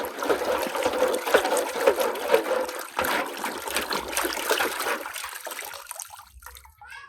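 Water running and splashing over a muddy toy vehicle as it is rinsed, with small gurgles and clicks; it trails off after about five seconds.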